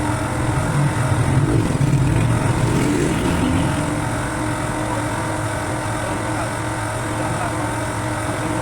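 A motor running steadily with a low hum, swelling briefly about a second in.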